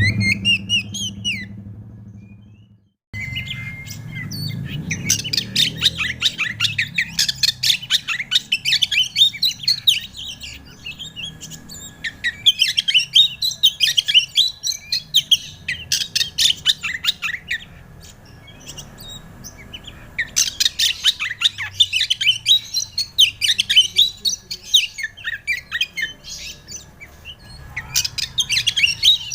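Oriental magpie-robin (kacer) singing in long runs of rapid, varied chirps and whistles, broken by short pauses between phrases, over a faint steady high tone. The song starts after a short fade and a moment of silence near the start.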